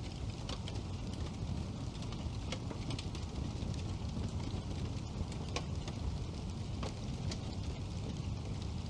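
Wood fire burning in a fireplace: a steady low rumble of flames with irregular sharp crackles and pops from the burning logs, several a second at times.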